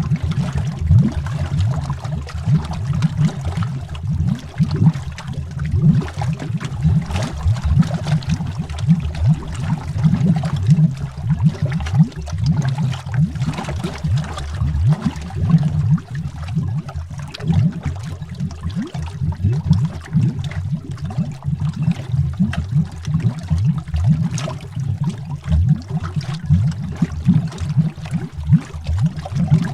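Continuous underwater bubbling: a dense, unbroken stream of short, low bubble pops and gurgles, heard as if from under the water.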